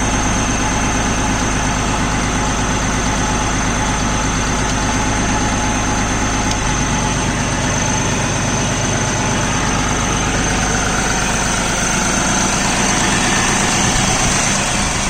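New Holland 5620 TX Plus tractor's turbocharged common-rail (CRDI) diesel engine idling steadily, its note shifting slightly about six and a half seconds in.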